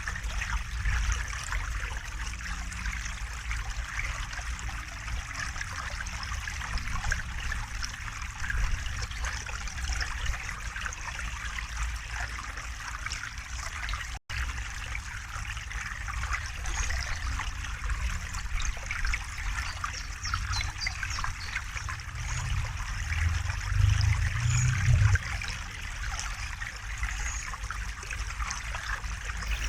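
River water flowing steadily, with a low rumble underneath that grows louder for a few seconds near the end. The sound cuts out for an instant about halfway through.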